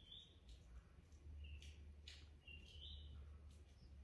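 Near silence with a few faint, short bird chirps and a low steady hum.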